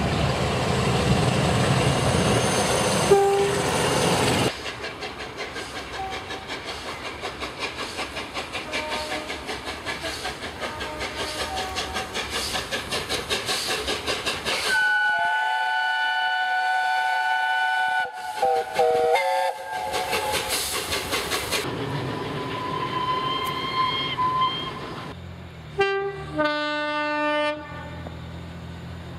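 Trains passing and sounding their horns. A loud rush of a train going by is followed by a long run of fast, even wheel clicks over rail joints. Then comes a long horn blast, a quick run of short horn notes that jump between pitches, a fainter horn, and one more horn near the end.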